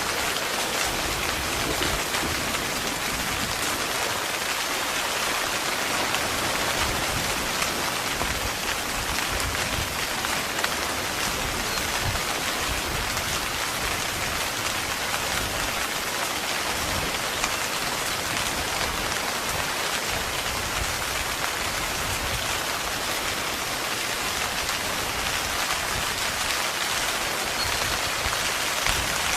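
Heavy rain falling steadily on a tent: a dense, even patter of drops.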